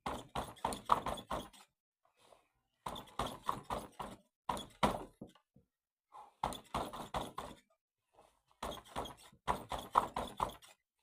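Quick flurries of punches landing on a padded striking pad, several fast hits in each flurry with short pauses between.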